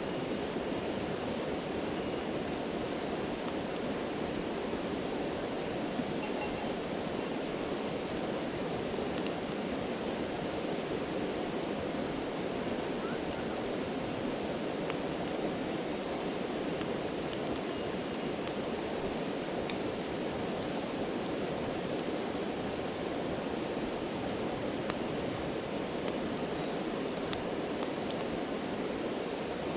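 Steady rushing of a stream with occasional faint crackles and pops from a campfire.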